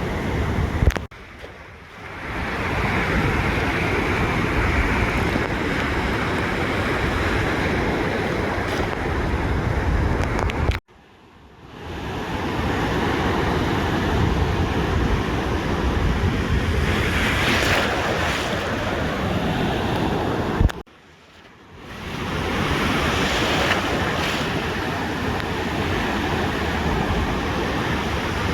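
Ocean surf washing onto a beach, a steady rush of breaking waves. The sound cuts out sharply three times, about every ten seconds, and swells back within a second or so.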